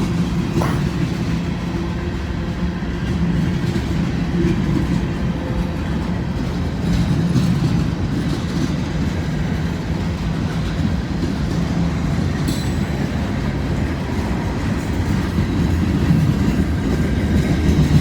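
Freight cars of a long CSX mixed-manifest train rolling past at close range: a steady low rumble and clatter of steel wheels on the rails.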